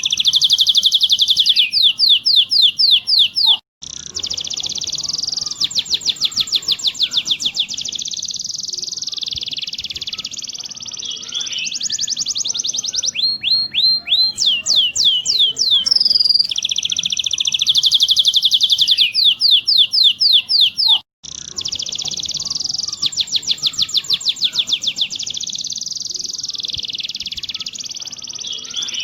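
Domestic canary singing a continuous song of fast rolled trills and rapid repeated notes, a training recording for teaching canaries to roll. The song drops out abruptly twice for a moment.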